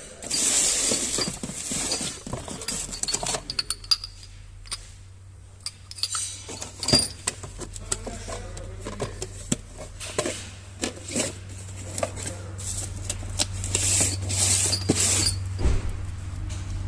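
Metal tools and parts clinking and knocking irregularly, with short hissy bursts near the start and near the end, and a low steady hum growing in the second half.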